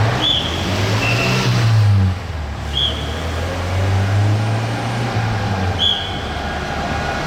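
A large vehicle's engine running close by amid city traffic noise, building briefly about a second in and then holding steady. Short high beeps sound a few times.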